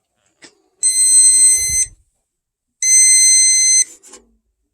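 Rinnai tankless water heater's leak alarm beeping: long, high electronic tones about a second each, repeating every two seconds. This is the warning for error code 79, water detected on the moisture sensor.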